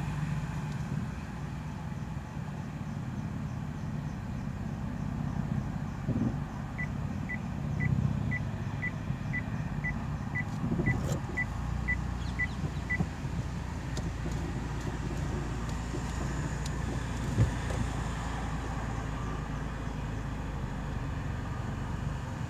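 Maruti Suzuki Baleno hatchback's engine running at low speed as the car is turned in a tight space, a steady low hum. From about seven seconds in, a run of short high beeps, about two a second, lasts some six seconds.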